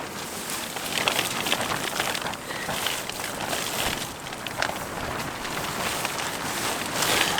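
Tarp shelter rustling and crackling in strong, gusting wind, with irregular crackles throughout.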